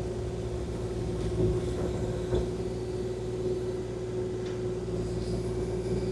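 Kubota KX040-4 mini excavator's diesel engine running steadily, a constant whine over a low rumble, with a few faint ticks.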